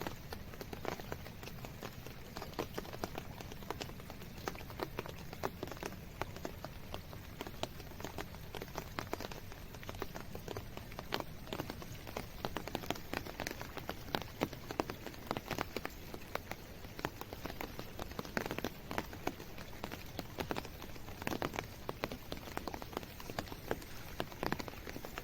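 Steady rain, a dense patter of drops hitting hard surfaces.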